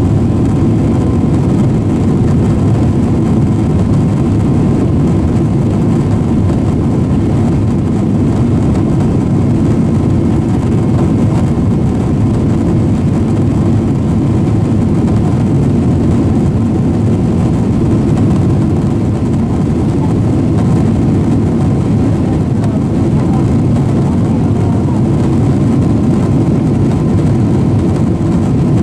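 Steady low-pitched rumble of cabin noise inside a Boeing 767-400ER airliner in flight, from its jet engines and the airflow around the fuselage, holding an even level throughout.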